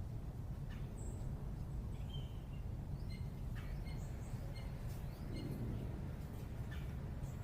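Small songbirds giving short, high chirps here and there, with a run of quick repeated notes in the middle, over a steady low rumble of urban background noise.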